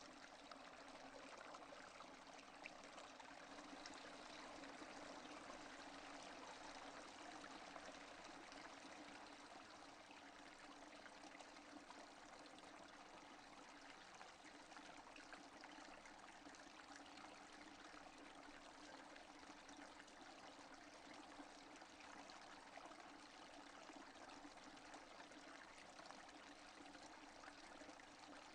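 Faint, steady rainfall, an even hiss of drops with no thunder.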